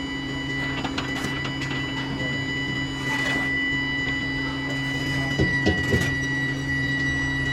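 Steady machinery hum with a thin high whine, and a few short knocks about five and a half to six seconds in.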